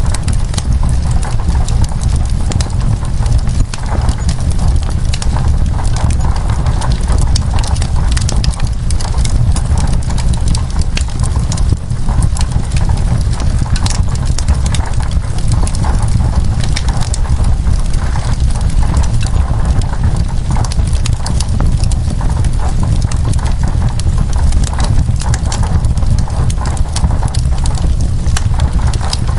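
Wood fire crackling with a dense, irregular run of sharp pops over a steady low rumble, mixed with an even hiss of rain.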